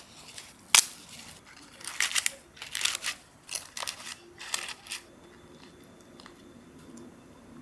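Kitchen food-preparation handling sounds: several short bursts of crinkling and rustling that stop about five seconds in, leaving a faint low hum.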